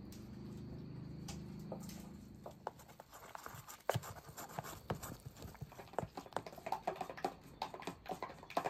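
Irregular crackling and sharp pops, several a second, as aloo chops fry in hot oil over a wood fire. A low steady hum fades out after about two and a half seconds.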